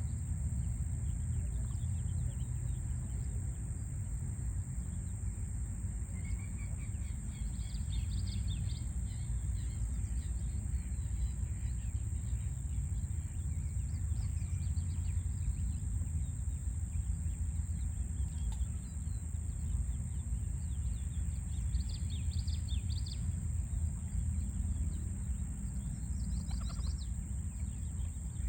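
Steady low rumble of distant city traffic, with small birds chirping in short scattered phrases over it, most around a quarter of the way in, again after about twenty seconds, and near the end.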